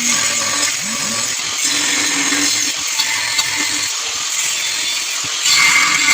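Angle grinder working metal, a steady harsh hiss of cutting or grinding that gets a little louder near the end.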